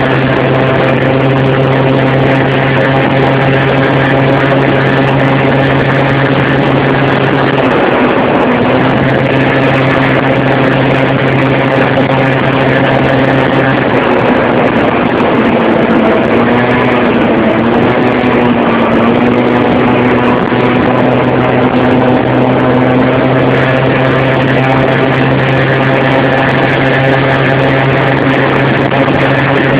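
Motorcycle engine running steadily at a constant low pitch, with small shifts in its note about eight seconds in and again around the middle.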